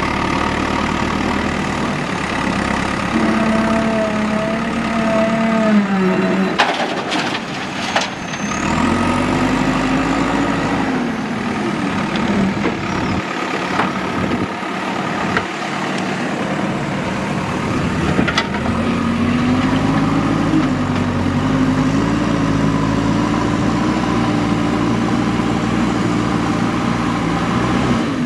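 Diesel engine of a JCB 3DX backhoe loader working, its revs rising and falling several times as it loads. A few sharp clanks about seven seconds in.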